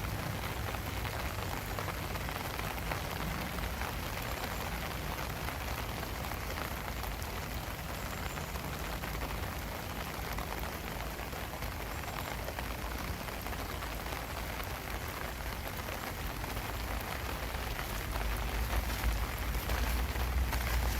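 Steady rain falling in a dense, even patter. A low rumble underneath grows louder near the end.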